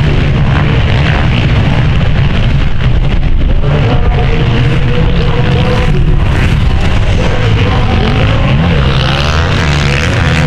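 Motocross bikes racing, their engines revving up and down.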